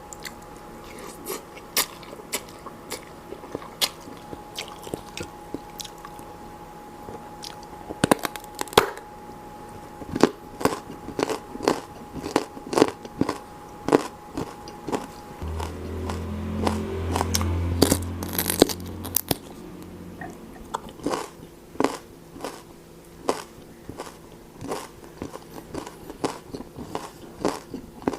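A person eating close to the microphone: many sharp, crisp crunching bites and chewing of crunchy food. A low rumble runs under it for a few seconds in the middle.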